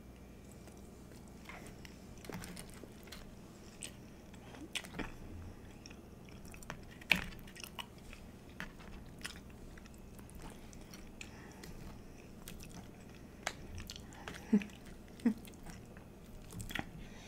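Close-miked chewing and biting of chili cheese fries: soft wet mouth sounds with scattered sharp clicks, the loudest about a third of the way in and again near the end.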